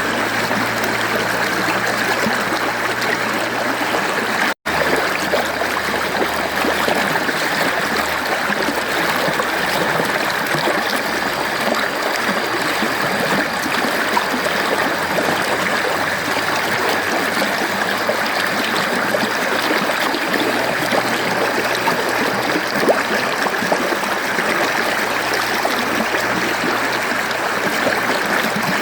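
Mountain stream flowing steadily over rocks, a continuous rush of water with trickling and gurgling. The sound briefly cuts out once, about four and a half seconds in.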